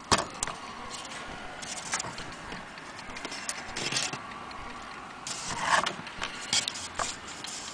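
Irregular clicks, small metallic rattles and short rustling swishes from an old wall clock being handled, with no steady ticking.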